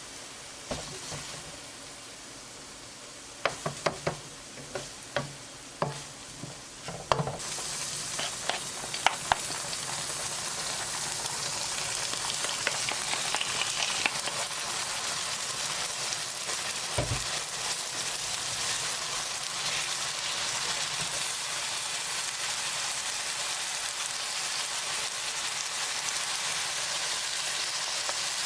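A few clinks of a utensil against a pan, then about a quarter of the way in a sudden sizzle as food hits the hot pan, which keeps frying steadily. One dull knock near the middle.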